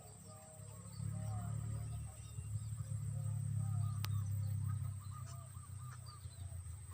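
Many short chirping animal calls over a low rumble that swells for a few seconds in the middle.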